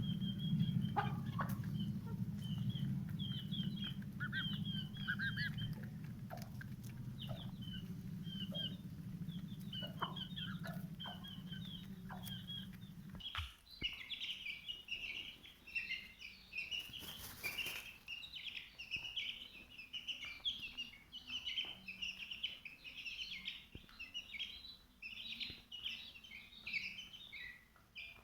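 Birds chirping, many short high calls overlapping, growing denser after about 13 seconds in. A steady low hum runs underneath and cuts off suddenly about 13 seconds in. A brief rushing noise comes around 17 seconds.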